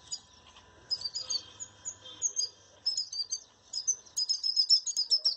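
A small bird giving short, high, repeated chirps that come faster and closer together toward the end. It is calling its flock over to fruit it has found rather than eating it alone.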